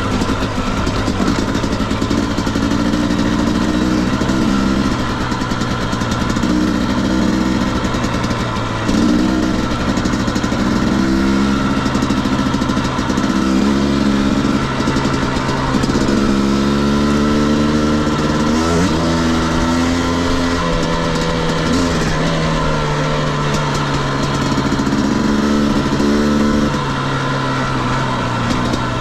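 Husqvarna TE250i's single-cylinder two-stroke engine running on a dirt bike under changing throttle, its pitch rising and falling again and again.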